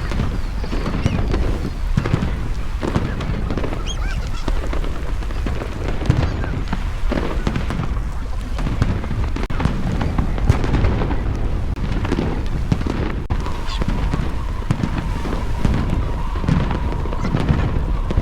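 Fireworks display: repeated bangs and crackles over a constant low rumble. A steady high tone joins in for the last few seconds.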